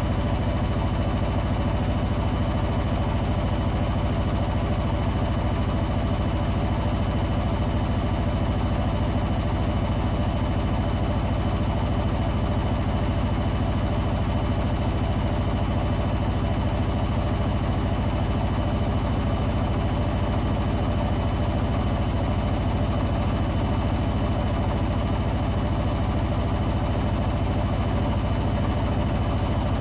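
Hoover New Wave Plus WA1300 washing machine in its 1300 rpm final spin, the drum and motor running at a steady high speed: an even, unchanging hum with a faint high whine above it.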